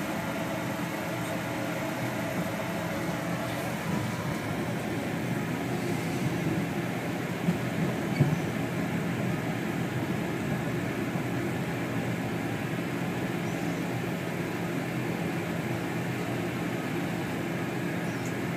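Steady running noise inside a First Great Western diesel passenger train as it pulls into the platform: an even low hum with a few faint knocks about seven and eight seconds in.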